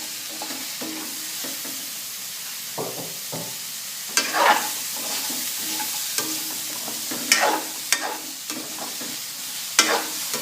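Chopped onion, bell pepper, chilli and spring onion sizzling in hot oil in a wok, with the vegetables stirred and scraped around the pan in several short strokes.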